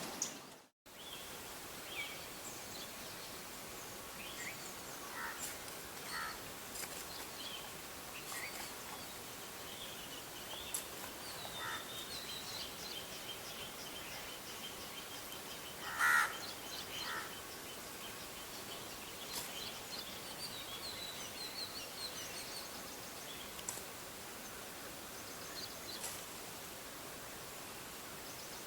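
Outdoor ambience with small birds chirping and a rapid run of high ticking calls, and crows cawing now and then, one caw loud about halfway through.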